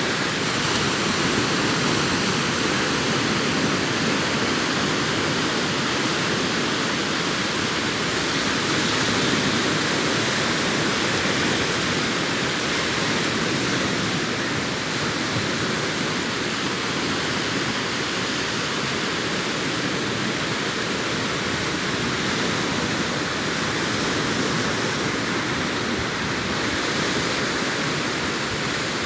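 Sea waves washing onto a beach: a continuous, steady rush of surf that swells only slightly now and then.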